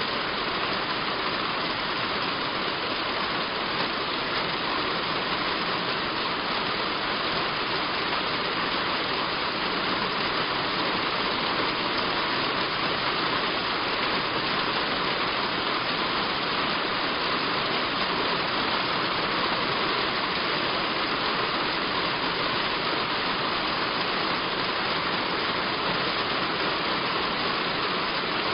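Heavy rain falling on a roof: a steady, even hiss of rain.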